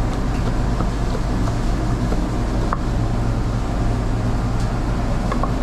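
Steady low machine hum with a few faint light clicks over it.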